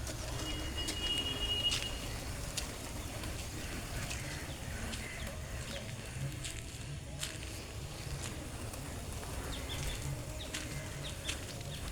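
Birds at feed: wings flapping and scattered sharp clicks, with a short high, steady call near the start and faint chirps, over a steady low rumble.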